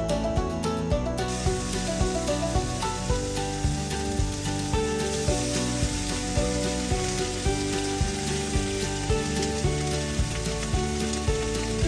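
Background music with a steady beat, joined about a second in by a steady sizzle of food cooking over a fire.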